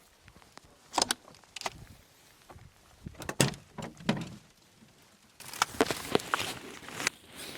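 Several separate knocks and handling thuds. About five seconds in, a steady rustling hiss starts suddenly, dotted with crackles.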